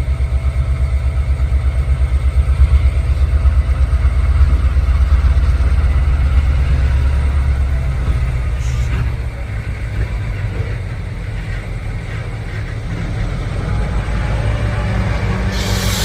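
Diesel locomotive engine running with a deep, pulsing throb, easing off somewhat about nine seconds in, with a short burst of hiss near the end.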